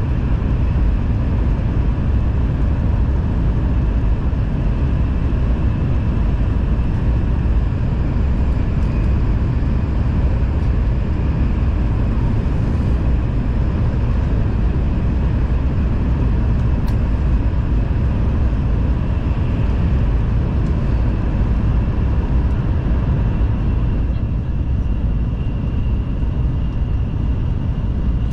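Steady cabin noise inside a Nishi-Kyushu Shinkansen N700S train running along the line: a continuous low rumble of wheels, running gear and air, with a faint steady whine over it.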